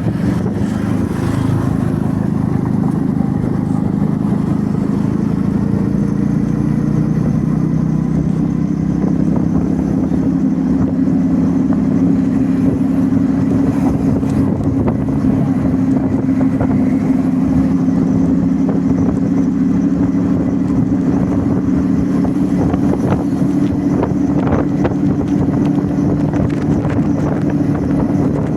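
Motorbike engine running at a steady speed.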